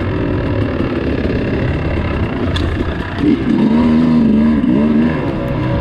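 Dirt bike engine running under throttle, growing louder about three seconds in, its pitch rising and falling with the throttle.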